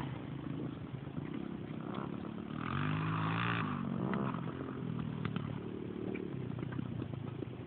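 Dirt bike engine running, its revs rising about three seconds in and holding for about a second before falling back, with a few light clicks and clatter.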